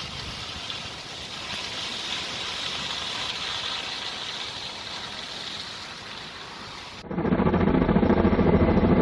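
Steady rushing outdoor noise, then an abrupt cut about seven seconds in to a loud, steady engine drone with many held tones.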